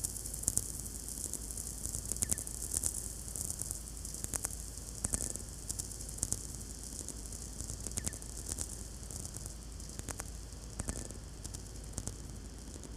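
VLF radio receiver picking up natural radio noise from many distant lightning strikes (sferics): a steady hiss with sharp crackling clicks at an irregular pace, a few ending in a short ringing tail.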